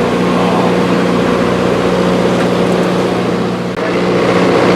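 Drag-racing truck engine idling steadily, with a brief dip in level near the end.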